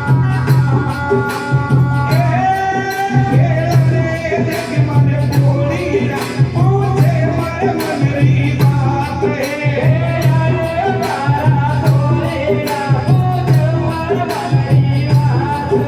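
Live Indian folk devotional music: a voice singing a gliding, ornamented melody over a steady low drone and a quick, even beat of jingling percussion.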